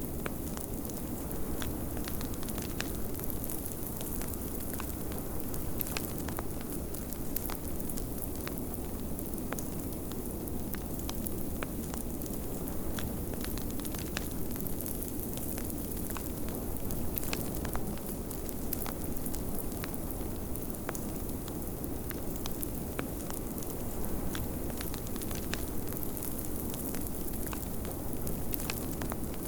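Wood fire crackling in a fireplace, with frequent small sharp pops, over a steady rushing of blizzard wind.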